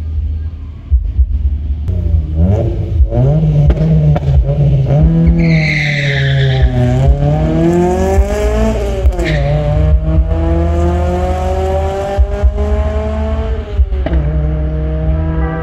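Toyota Celica ST202's 3S-GE BEAMS four-cylinder launching hard off a drag strip start line, revving up through the gears with two marked drops in pitch at the gear changes. A brief tire squeal comes about six seconds in, over a heavy low rumble.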